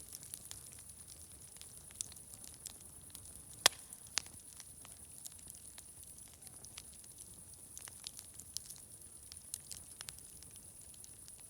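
Wood fire crackling with irregular small pops and one sharp, loud pop about a third of the way in, over a steady high hiss.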